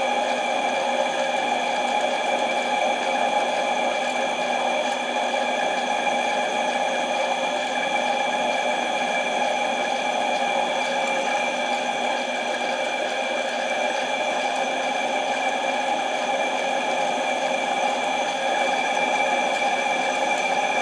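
Harbor Freight mini lathe running steadily, its motor and gear train giving a constant whine with several steady tones over a mechanical hum.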